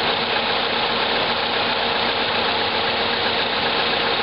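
Subaru Impreza's flat-four engine idling steadily, with the air conditioning running while the system takes a refrigerant recharge.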